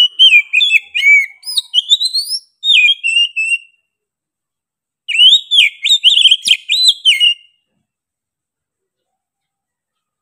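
Oriental magpie-robin (kacer) singing loud, varied whistled phrases with quick rising and falling notes, in two bursts of song with a pause of about a second and a half between them; it falls silent for the last few seconds.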